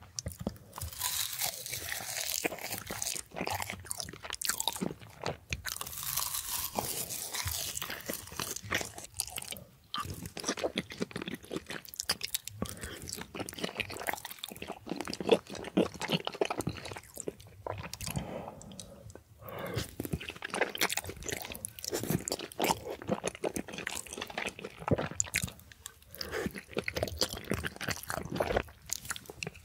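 Close-miked ASMR eating: a person biting and chewing chewy rice cakes in creamy rosé tteokbokki sauce, with dense, irregular wet mouth clicks and smacks.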